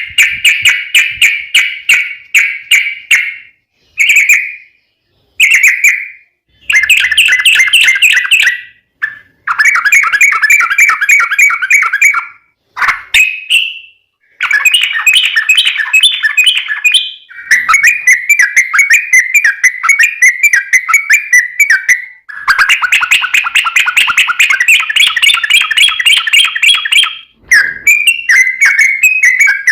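Yellow-vented bulbul (trucukan) singing its long, rapid chattering song. The song comes in phrases of quick repeated notes lasting a few seconds each, broken by short pauses.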